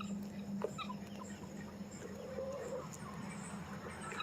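Chickens clucking softly, with a couple of short calls and scattered light ticks.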